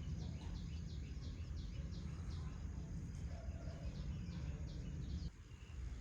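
Birds chirping in a quick run of short high calls, several a second, over a steady low outdoor rumble that cuts out suddenly near the end.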